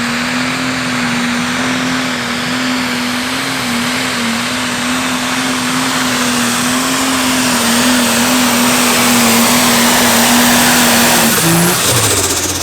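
Turbocharged diesel pulling tractor running at full throttle under load, dragging the sled, with a high turbo whistle over the engine and getting louder as it nears. Just after eleven seconds the throttle shuts and the engine drops back to a low idle, ending the pull.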